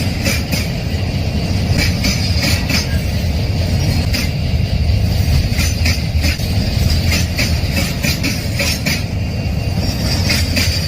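A train rolling past at close range: a continuous heavy rumble of wagons, with clusters of wheel clicks over the rail joints every second or two.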